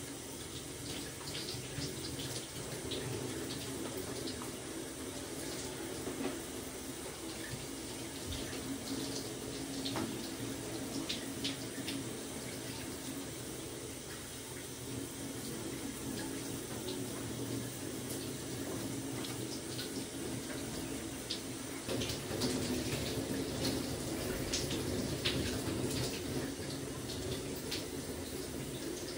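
Water running steadily in a small bathroom, with scattered small splashes and ticks, getting a little louder about twenty-two seconds in.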